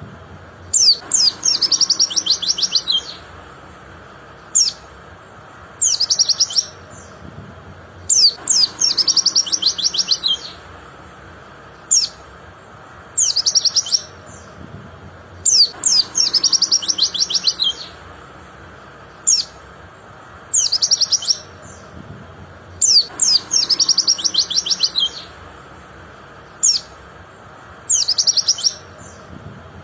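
White-eye (pleci) singing: sharp, high single chirps alternate with bursts of fast, high trilling about two seconds long. The pattern repeats about every seven and a half seconds, like a looped training recording.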